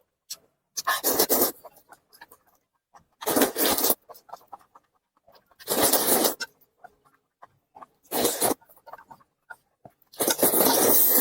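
A person slurping noodles into the mouth in five loud slurps, roughly every two and a half seconds, with small wet chewing clicks in between.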